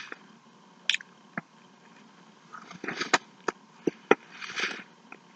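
A person chewing a mouthful of a McChicken sandwich close to the microphone: scattered soft, wet mouth clicks, with a couple of short breaths through the nose around three and four and a half seconds in.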